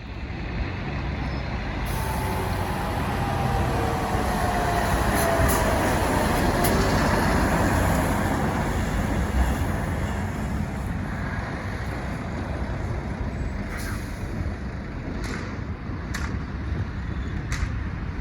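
Heavy truck passing by on the road, its engine and tyre note falling in pitch as it goes past, with several short sharp hisses later on.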